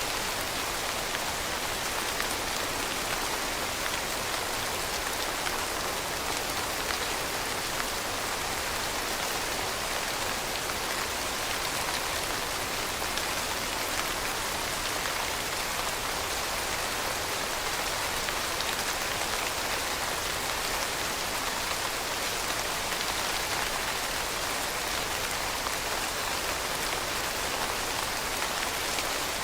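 Steady rain falling and pattering on a surface, an even hiss of drops.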